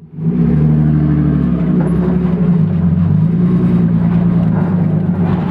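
Drift car's engine running while driving, a steady drone whose pitch shifts a little a few seconds in.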